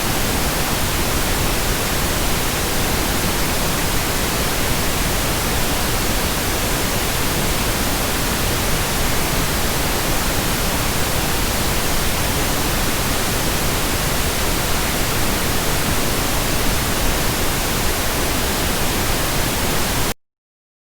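Steady pink noise, an even hiss across the whole range, which cuts off suddenly near the end, leaving silence.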